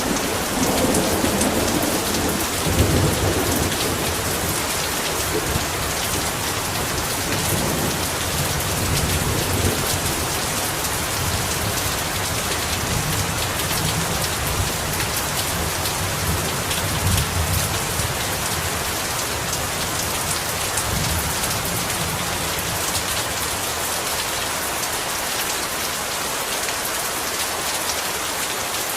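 Heavy rain falling steadily, with low rolling thunder through the first part that fades out about two-thirds of the way in.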